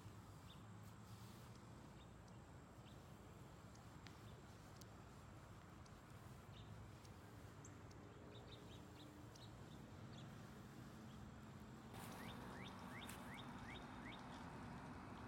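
Near silence: faint outdoor background with scattered faint bird chirps, and a run of quick, short bird chirps over a slightly louder background for the last few seconds.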